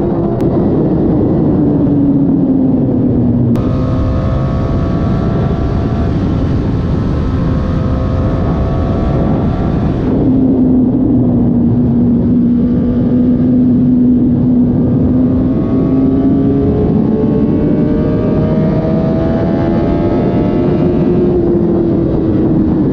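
Suzuki GSX-R1000 K7 inline-four running through its stock factory exhaust while under way, the engine note easing down, holding steady, then slowly rising and falling again at moderate revs, with no sharp revving.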